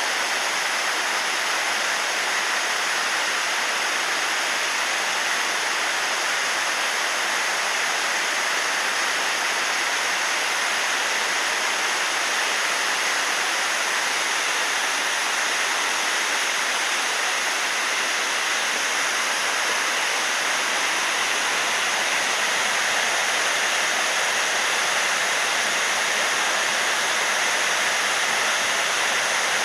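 Waterfall pouring steadily, a constant full rushing of falling water.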